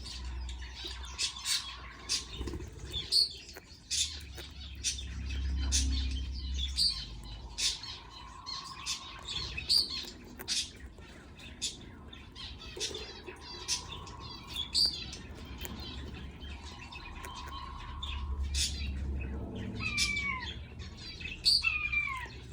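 Budgerigars, a parent with its chicks, chirping and squeaking in quick short notes. Near the end come a few calls that fall in pitch.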